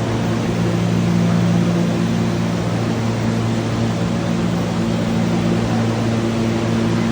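Subway train running, heard inside the car: a steady rumble with a low, even motor hum.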